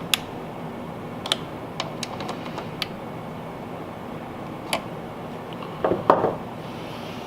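Scattered light clicks and knocks of small parts and tools being handled during reassembly of a generator, with a short cluster of louder knocks about six seconds in, over a steady background noise.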